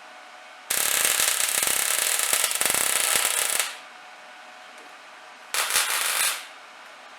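Electric welding arc crackling as steel angle is stitch-welded onto a trailer's steel frame, in two bursts: a weld of about three seconds starting just under a second in, then a short one of under a second near the end.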